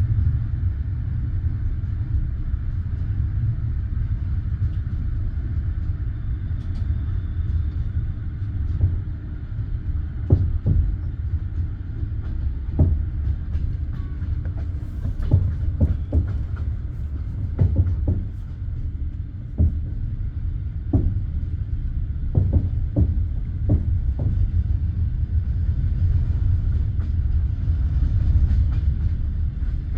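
Passenger train wheels rolling on the rails with a steady low rumble. Irregular clacks come over rail joints, clustered through the middle of the stretch.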